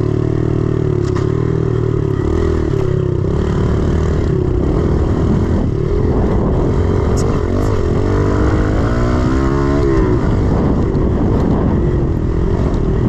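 110cc four-stroke single-cylinder pit bike engine running under load, the revs rising and falling as the rider works the throttle, with a clear climb in pitch about eight seconds in that drops away near ten seconds.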